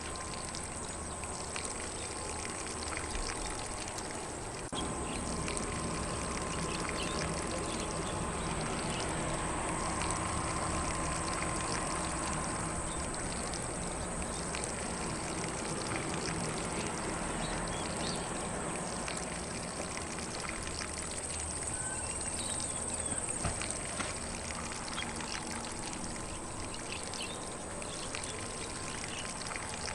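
Lawn sprinkler spraying water over grass, a steady hiss of spray.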